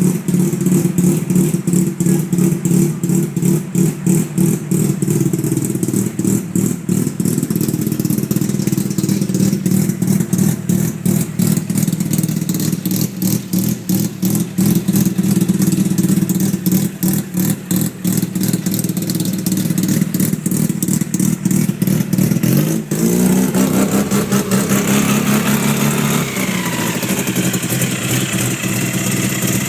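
Mazda REPU pickup's rotary engine idling with a choppy, uneven exhaust pulse, then revved about two-thirds of the way in, the pitch rising for a few seconds and settling back down.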